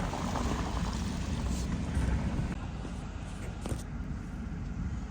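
A vehicle driving on a snow-covered road: steady low rumble of engine and tyres, with a few faint clicks.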